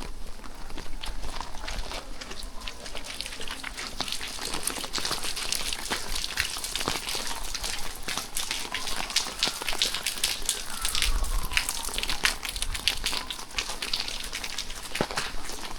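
Rain falling, with many separate drops ticking close by over a steady hiss. In the middle, a faint tone rises slowly and falls away again once.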